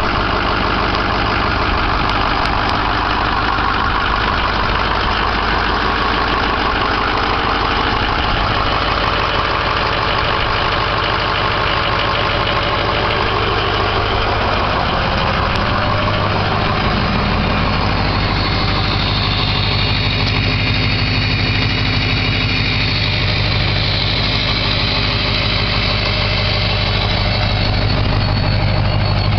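Ford 6.0L Power Stroke V8 turbodiesel running at idle through a 4-inch stainless dual exhaust, with a high turbo whistle over the engine note. The whistle shifts in pitch, growing higher and brighter in the second half.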